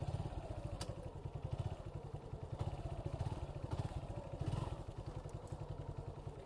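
Suzuki Gixxer 155's single-cylinder engine running steadily at low revs, with an even, rapid pulsing.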